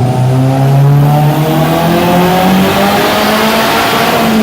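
Turbocharged Nissan SR20DET four-cylinder engine at full throttle in a chassis-dyno pull, its pitch climbing steadily as the revs rise and peaking near the end.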